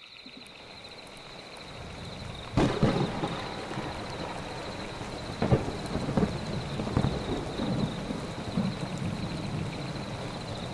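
A rainstorm sound effect. Rain builds up over the first two seconds, then a sudden loud thunderclap comes about two and a half seconds in. Steady heavy rain follows, with further rolls of thunder.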